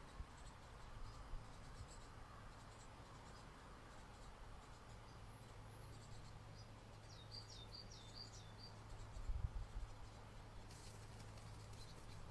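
Faint outdoor ambience with a low steady hum. About seven seconds in, a small bird gives a quick run of high chirps, and a couple of low thumps follow near nine seconds.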